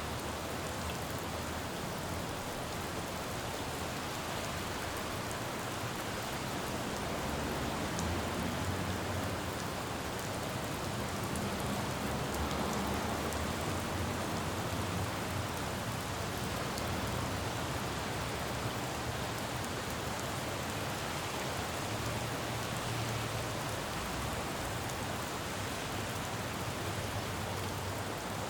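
Steady rain falling on a city road, with the low rumble of traffic swelling a few times.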